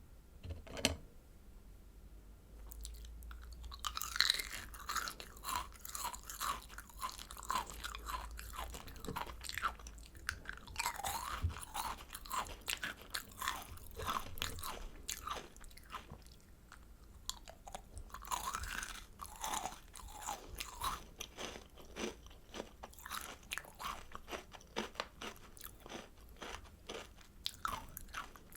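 Close-miked crunching and chewing of kohakutō, crystal agar jelly candy whose sugar-crusted shell crackles as it is bitten and chewed: one sharp bite just under a second in, then a steady stream of irregular crisp crackles.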